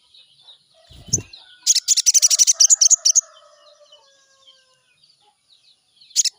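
Sogon bird singing in high, rapid chirps: a fast run of chirps lasting about a second and a half from near the two-second mark, and one short chirp near the end. A short low thump comes about a second in, and fainter, lower drawn-out calls sound behind.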